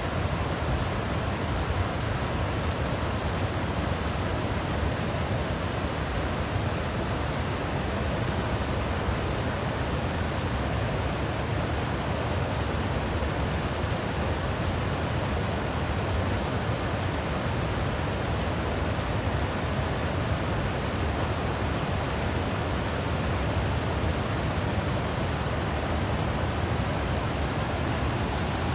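Shallow stream flowing over rocks and small check dams, a steady even rush of water with no breaks.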